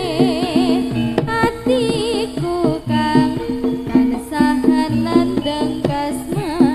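Javanese jaranan accompaniment music: hand-drum strokes under a melody with a strongly wavering pitch, from a voice or a wind instrument.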